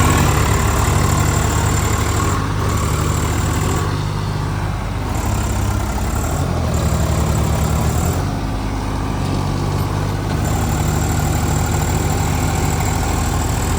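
Diesel tractor engine running with a steady low chugging, its pitch and load shifting up and down several times.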